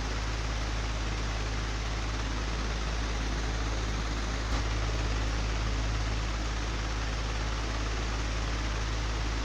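An old, broken electric fan running steadily: a constant low motor hum under an even rush of air, with one brief click about halfway through.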